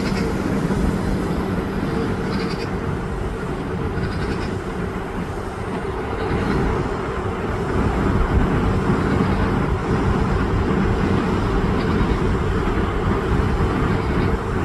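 Steady low outdoor rumble with a constant hum, over which short high gull cries come every couple of seconds.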